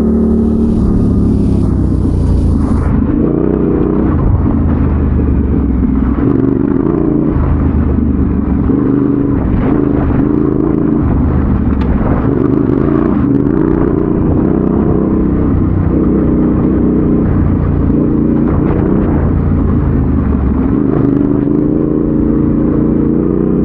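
Adventure motorcycle's engine running under way, its revs rising and falling again and again with the throttle.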